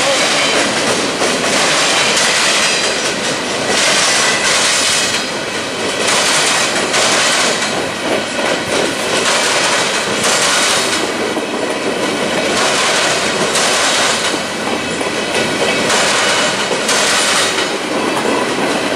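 Freight cars of a CSX manifest train rolling past close by: a loud, steady rumble of wheels on rail, with clacks recurring every second or so, often in pairs, as the wheels cross rail joints.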